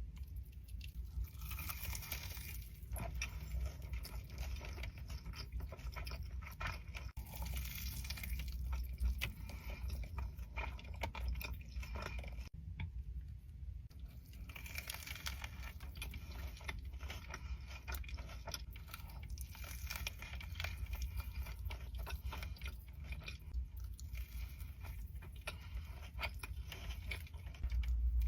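Close-miked chewing and biting: wet mouth smacks and small crunches come one after another, over a steady low hum.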